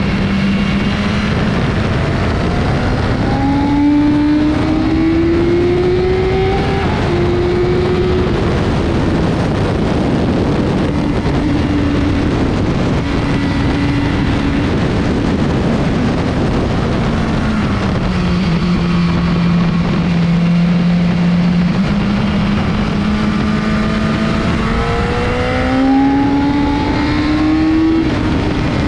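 BMW S1000RR inline-four engine running hard at speed under heavy wind rush. The revs climb in steps through the gears, drop back around the middle, then build again near the end.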